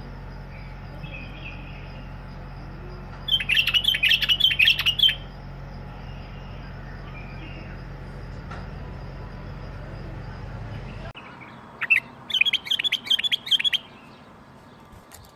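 A bulbul singing: two bursts of quick, repeated chirping notes, each about two seconds long, the first about three seconds in and the second near twelve seconds. Beneath them a steady low hum cuts off suddenly about eleven seconds in.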